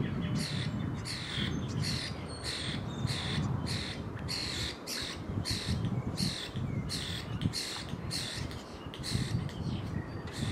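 A bird giving short, harsh calls over and over, about two a second without a break, over a steady low rumble.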